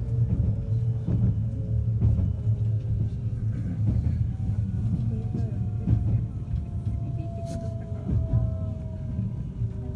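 A 521 series electric train running on rails: a steady low rumble with a sharp click now and then, and a thin whine that slowly falls in pitch.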